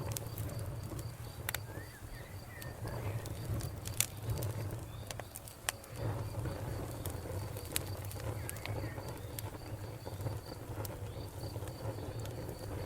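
Wood fire crackling: a steady low rumble of burning, with scattered sharp pops and cracks of the wood, the loudest about four seconds in. A faint, evenly repeating high chirp runs behind it.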